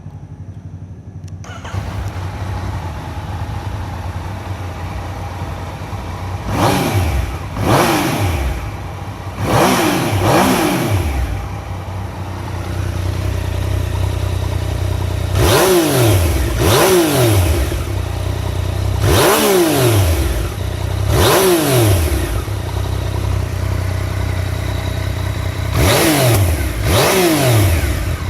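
Yamaha MT-09's 847 cc inline three-cylinder engine starting on the starter about a second and a half in and settling into idle, then blipped repeatedly in three clusters, each rev rising and dropping back to idle. The idle is stable and the revs rise smoothly, with no abnormal mechanical noise.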